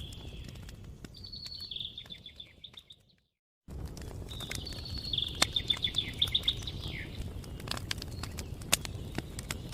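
A songbird sings two phrases of rapid trilled notes over a crackling campfire, with sharp pops scattered throughout. The sound fades out and drops to silence about three seconds in, then cuts straight back in.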